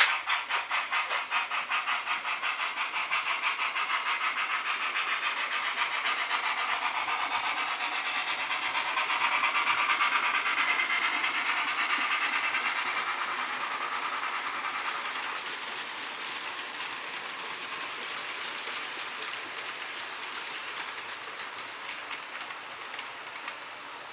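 H0-scale model train running on the layout: a rhythmic hissing pulse, about four or five beats a second at first, then a steady rolling rush that swells about ten seconds in and slowly fades away.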